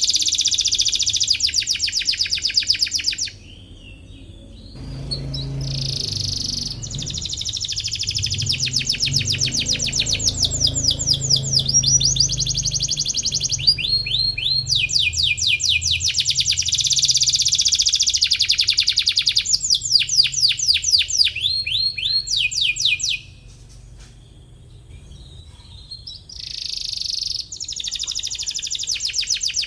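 Domestic canary singing long, rapid trills of quickly repeated falling notes in phrases, pausing briefly a few seconds in and again about three-quarters through. A low hum sits underneath for a stretch in the middle.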